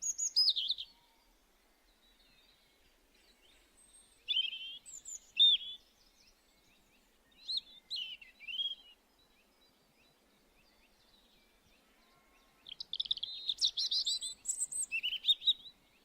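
Small birds chirping, short high calls in brief clusters, with a longer rapid run of chirps near the end.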